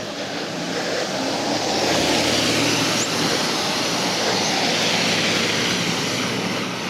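A passing vehicle: a broad rushing noise that builds over the first two seconds, holds, then eases slightly toward the end.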